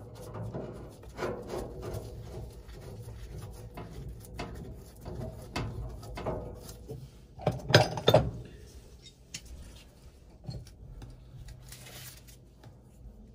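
Hands and tools working on metal furnace parts: scraping, rubbing and small clatters, with two sharp knocks close together about eight seconds in.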